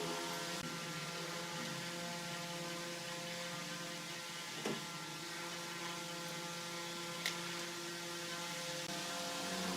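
Steady electric machine hum made of several even tones, with a sharp click about halfway through and another near three-quarters of the way.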